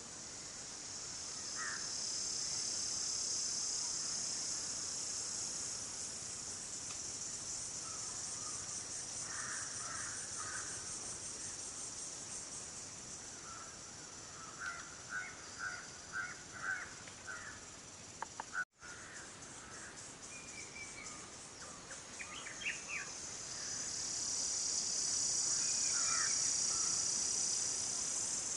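A steady, high-pitched chorus of insects, joined at intervals by short bird calls in clusters of quick notes. The sound cuts out for an instant about two-thirds of the way through.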